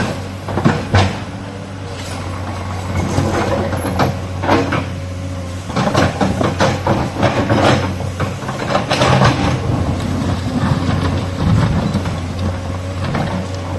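Hydraulic excavator digging a mountain road: its diesel engine runs with a steady low hum, under repeated knocks and clatter as it works.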